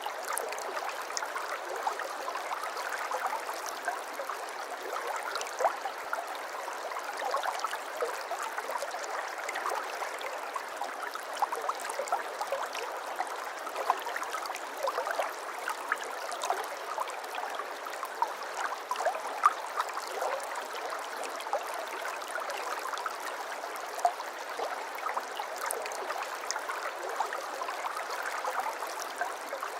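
Water flowing and trickling steadily, with many small splashes and plinks scattered through it.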